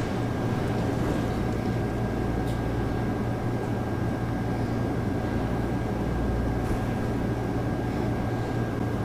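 Steady low electrical hum with an even background hiss and a faint steady high tone, unchanging throughout, with no distinct event.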